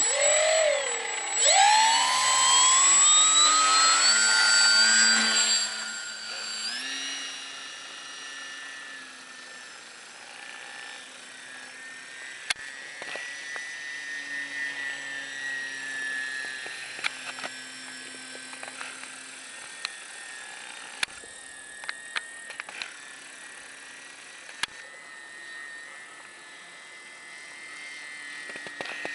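RC model airplane's propeller motor spinning up to full throttle in a rising whine, loud for about five seconds. It then falls away into a quieter, steady whine that wavers slightly in pitch as the model flies, with a few sharp clicks.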